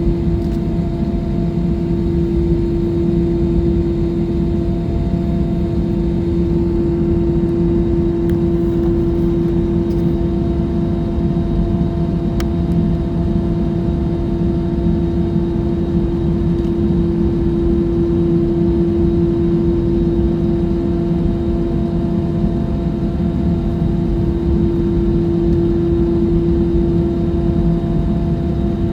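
Jet airliner cabin noise: the engines' steady drone, with one constant hum standing out over a low rushing noise.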